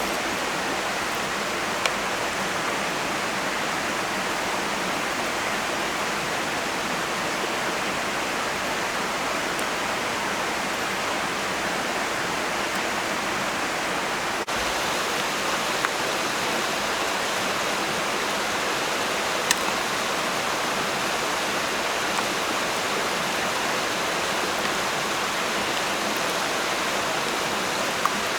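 Steady rushing of running water, with a few faint sharp clicks scattered through it.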